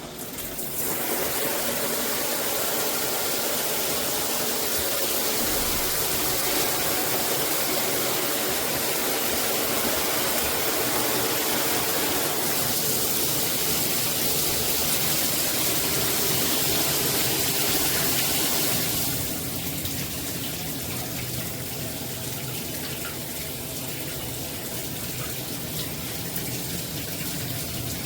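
Water spraying steadily from a shower head. About 19 s in the spray gets quieter and less hissy, then carries on steadily.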